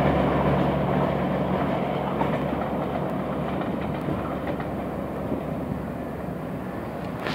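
Passenger express train's coaches rolling away over the track, the rumble of the wheels fading steadily as the train recedes; a low hum under it dies away about two and a half seconds in.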